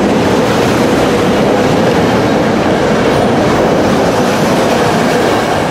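Commuter train passing close alongside the platform: a loud, steady rumble of wheels and rail clatter, easing slightly near the end.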